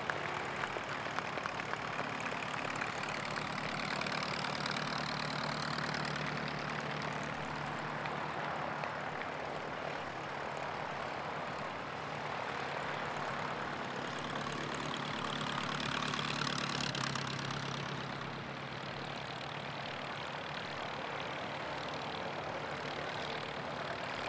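Propeller engines of de Havilland Canada Chipmunk trainers running steadily as the planes arrive, growing louder about four seconds in and again around sixteen seconds in, then easing off.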